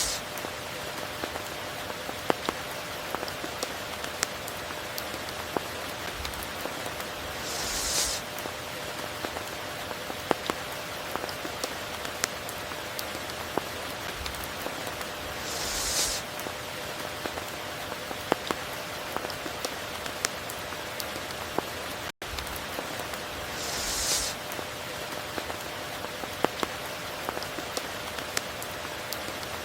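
Steady tropical rain falling over a river, dotted with scattered sharp drop hits. A short hissing swell recurs about every eight seconds, and the sound cuts out for an instant a little past the middle.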